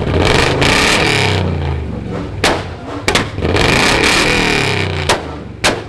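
A car engine revving hard, its pitch rising and falling in long pulls, with several sharp exhaust pops in between.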